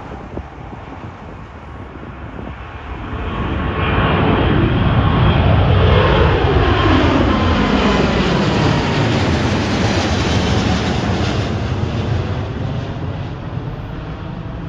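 Jet airliner passing close by on the runway approach or departure: its engine noise builds to a loud peak, then eases away, with whining tones sliding down in pitch as it goes past.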